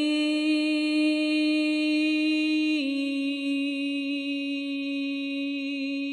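A woman's voice holding one long sustained chanted tone, dropping slightly in pitch about three seconds in: wordless toning in a sound-healing chant.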